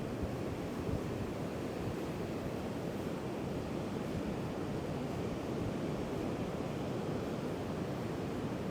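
Heavy ocean surf breaking on the beach in a strong wind, a steady roar of waves with wind buffeting the microphone.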